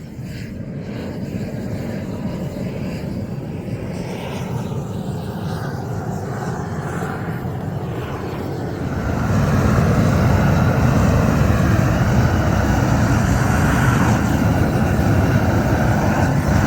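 A steady rumbling noise, machine-like, that grows louder about nine seconds in and then holds.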